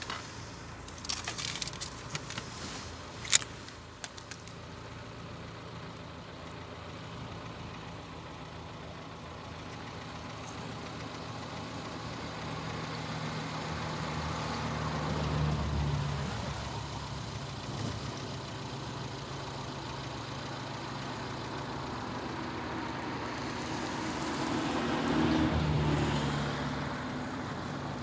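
Road traffic: motor vehicles passing, one swelling up and fading about halfway through and another near the end, with a few sharp clicks in the first few seconds.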